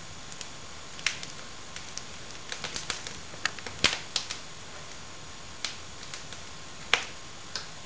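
Wood fire burning in a fireplace, crackling: irregular sharp pops and snaps over a steady soft hiss.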